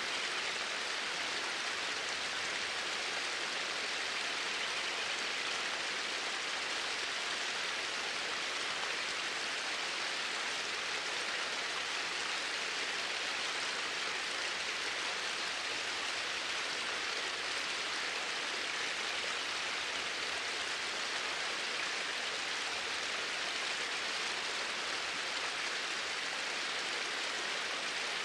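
Flowing water running steadily: an even, continuous rush with no breaks or changes.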